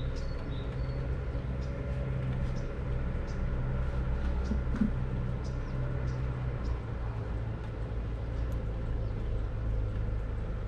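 Light rain ambience under a steady low rumble, with short high chirps or ticks now and then.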